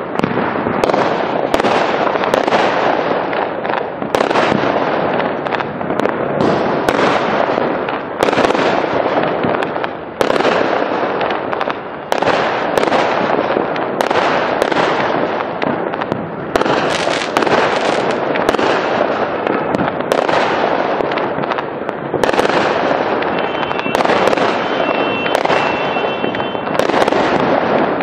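Fireworks display: a dense, unbroken run of sharp bangs and crackling from rockets bursting overhead, one blast following another every second or so.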